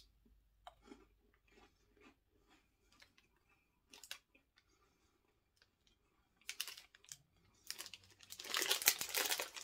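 Crunchy chewing of a white-chocolate-coated wafer bar, mostly quiet small crunches with one sharp crack about four seconds in, then a louder run of crisp crackling near the end. The wafer is very crispy.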